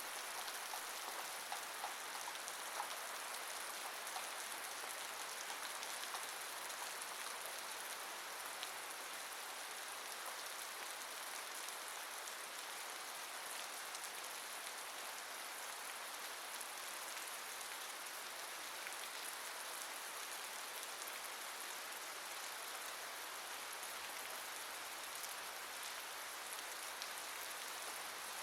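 Steady rain falling on a surface: an even hiss, strongest high up, with a few separate drop ticks.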